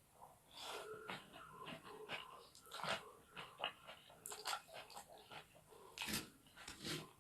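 Close-miked eating sounds: chewing fried rice stick noodles with rapid wet mouth clicks and smacks, and a louder breathy burst about six seconds in.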